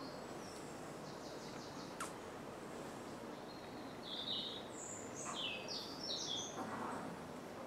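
Birds chirping: a run of short high notes in the second half, over a steady background hum, with a single sharp click about two seconds in.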